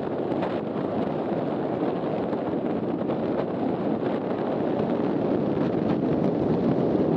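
Strong gusty wind buffeting the microphone: a steady, dense rumbling rush with no clear pitch, building slightly near the end.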